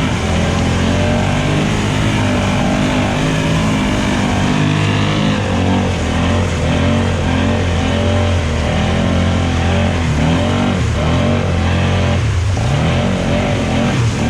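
ATV engine running and revving up and down, its pitch rising and falling, as a four-wheeler works through deep mud.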